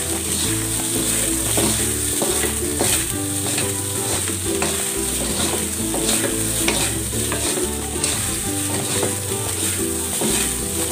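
Fried rice sizzling in a hot wok as it is tossed and stirred with two wooden spatulas, with frequent short scrapes and taps of wood on the metal pan.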